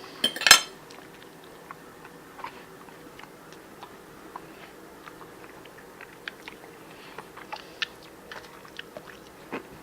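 Someone chewing food, with scattered small crunching clicks, after one sharp click about half a second in.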